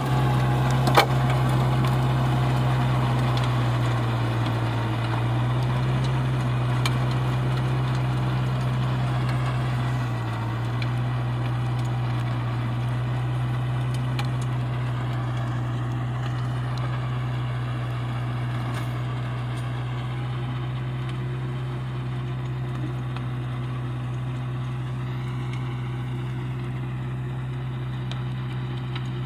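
Tractor engine running steadily with a strong low hum, its pitch dipping slightly about five and again about ten seconds in. There is a sharp click about a second in.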